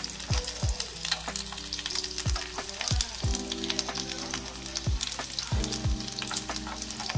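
Dried squid frying in hot oil in a nonstick pan: a steady crackling sizzle, with wooden chopsticks stirring and turning the pieces.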